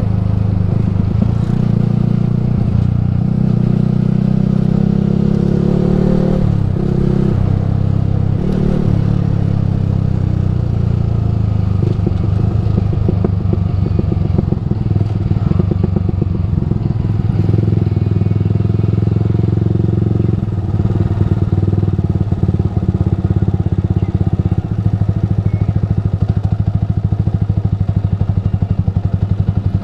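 Yamaha R15 V3's single-cylinder engine running through a Ronin Musashi aftermarket exhaust while under way. The revs shift up and down a few times in the first several seconds, then hold an even pace.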